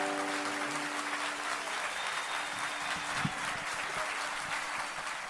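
Audience applauding, an even clapping that slowly fades, while the last held note of the plucked-string music dies away in the first few seconds.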